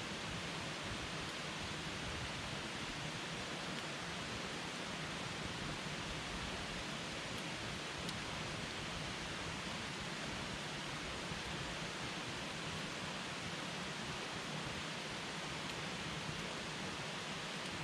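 Wood campfire burning with a steady hiss and a few faint crackles and pops.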